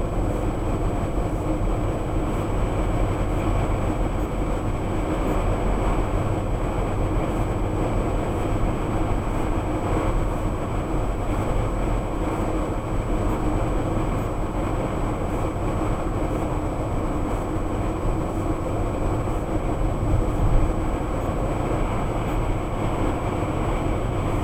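Steady road and engine noise inside a moving car on the freeway, with a faint steady high-pitched tone running underneath.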